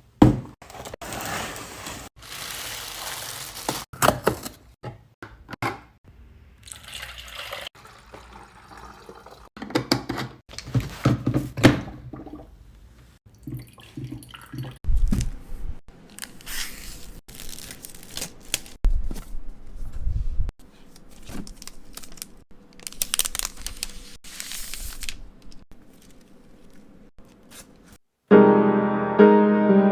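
Irregular close-up handling sounds of taps, knocks and rustling, with some liquid-like sounds; about two seconds before the end a piano tune comes in.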